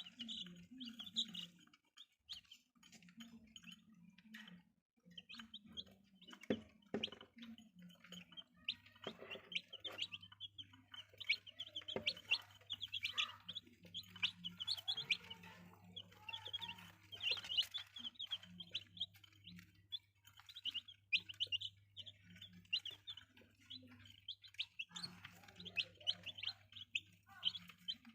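A brood of young chicks peeping continuously, many short high cheeps overlapping. A low steady hum joins underneath about nine seconds in.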